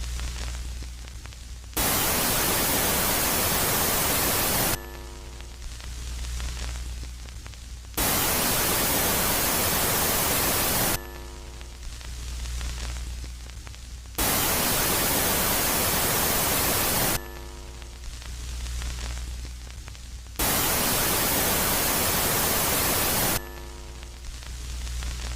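Electronic space-ambience static that alternates between a loud, even hiss lasting about three seconds and a quieter phase of low hum with faint steady tones. The cycle repeats about every six seconds, with four loud hiss phases here.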